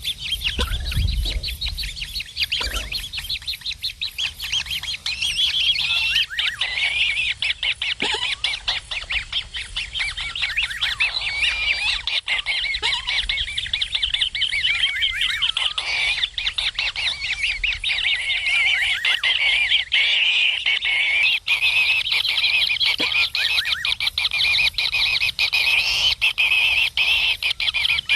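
Kingfisher nestlings begging: a rapid, continuous stream of harsh chirping calls that grows a little louder in the second half.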